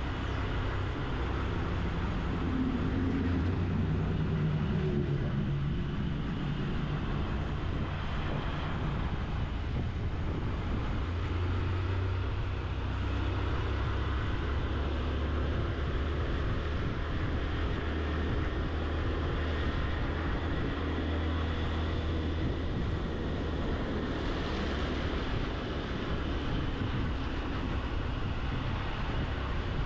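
Honda CG 160 Titan's single-cylinder four-stroke engine pulling uphill, its pitch rising and falling with the throttle, under steady wind noise on the microphone.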